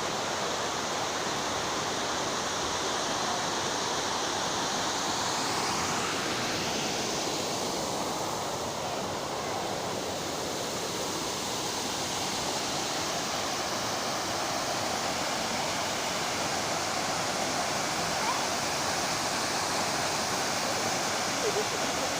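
Waterfall rushing and splashing, a steady loud roar of falling water heard from its base. The sound changes character slightly about six seconds in.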